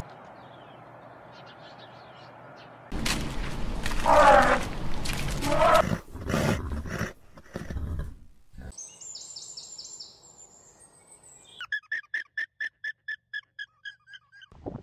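A camel's loud, rough grumbling call for a few seconds, then some high bird chirps. Near the end a horse whinnies in a fast, trembling run of about a dozen quick pulses.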